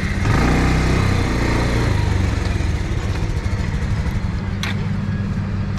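Motorcycle engine pulling away, rising in pitch over the first couple of seconds, then running steadily under the rush of wind and road noise.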